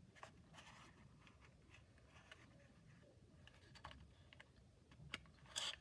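Faint scattered clicks and rustles of cardboard and plastic playset parts being handled and fitted together, with a louder brief scrape near the end.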